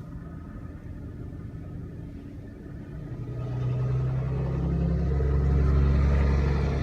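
A motor vehicle's engine running with a low, steady rumble that grows louder from about three seconds in.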